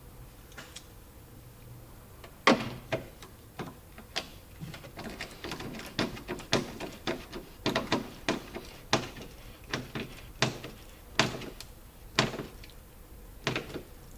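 A series of sharp clicks and knocks, irregularly spaced and often about one a second, with lighter ticks between: hand tools and parts being worked while a taillight is fitted and its fasteners are done up. The loudest knock comes about two and a half seconds in.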